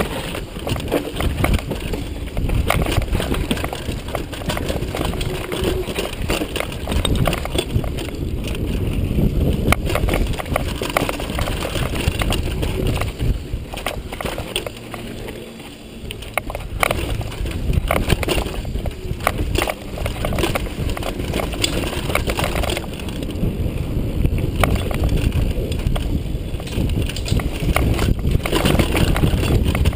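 Downhill mountain bike on a dirt trail: tyres rolling over dirt and rocks with a constant clatter of rattles and knocks from the bike, over rumbling wind on the microphone. It eases briefly about halfway.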